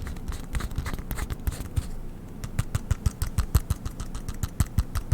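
Quick, irregular tapping and clicking on objects held close to the microphone, several taps a second, with low thuds beneath; the taps come faster and louder from about halfway in.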